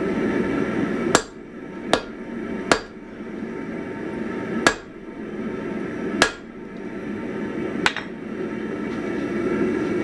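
Six heavy sledgehammer blows, irregularly spaced, strike hot 1045 steel on an anvil to draw out an axe blade, each with a short metallic ring. A steady low rushing noise runs underneath.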